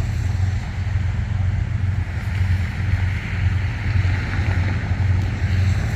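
Low, steady rumble of an approaching freight train's Kansas City Southern diesel locomotive, with a broad hiss that swells and eases in the middle.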